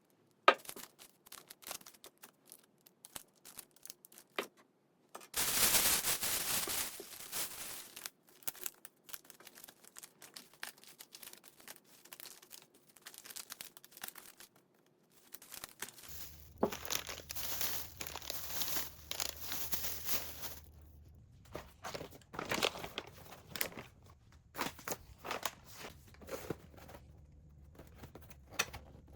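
Handling sounds: crinkling and tearing with scattered small clicks and knocks. There are two longer loud stretches of rustling, one about five seconds in and one about sixteen seconds in. A low steady hum comes in with the second stretch.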